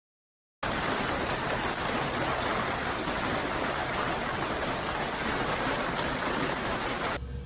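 Steady, dense rush of water, starting about half a second in and cutting off abruptly near the end.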